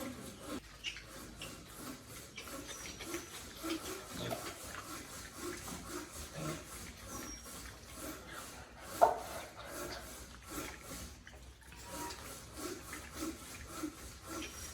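A flock of chickens clucking in short, low, irregular notes, with a few high chirps and one sharp louder call about nine seconds in.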